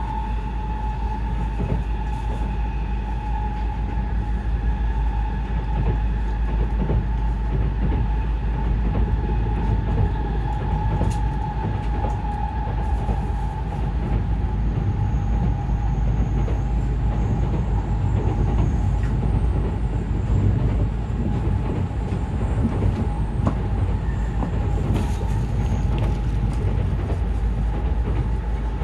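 Inside a moving N700S Shinkansen car: the low running rumble of the train with a steady high whine over it.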